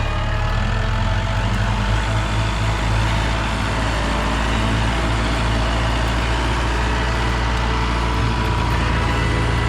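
A motor vehicle running steadily, a continuous low drone.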